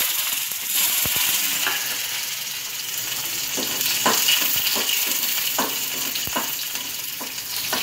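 Small shallots sizzling in hot oil with mustard seeds in a kadai, a loud steady hiss that eases a little. A spoon stirring them ticks and scrapes against the pan several times.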